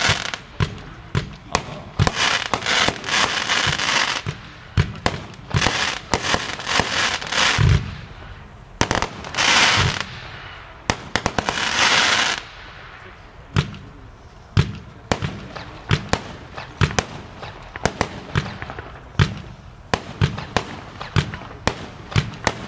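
Consumer fireworks batteries (cakes) firing a rapid series of shots. Several stretches of crackling hiss come in the first half, then spaced single shots for the rest.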